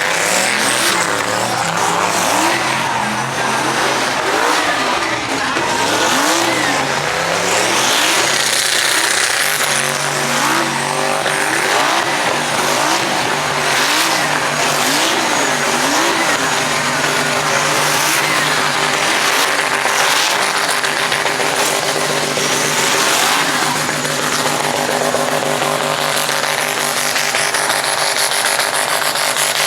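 Truck engines revving hard and repeatedly in a burnout pit, pitch rising and falling about twice a second, with tires squealing and spinning.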